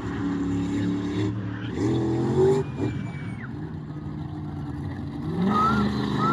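Monster truck engine running, revving up about two seconds in and again near the end.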